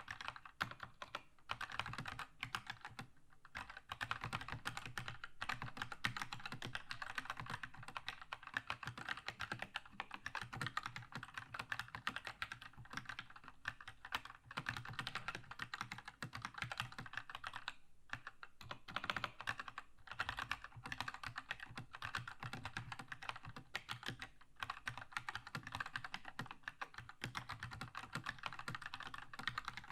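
Keychron K2 mechanical keyboard with red linear switches being typed on fast and continuously, a dense run of key clacks with a couple of short pauses.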